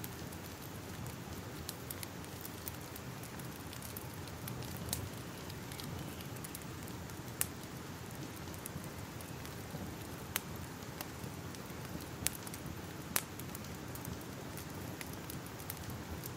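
Fire crackling: a steady hiss and rumble with scattered sharp pops, the loudest a few seconds apart through the middle and later part.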